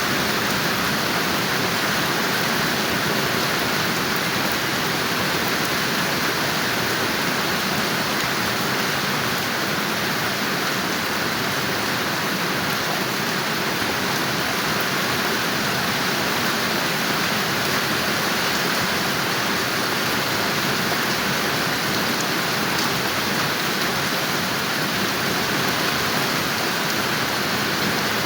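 Steady, even rain falling, with a constant hiss and no distinct drops or thunder.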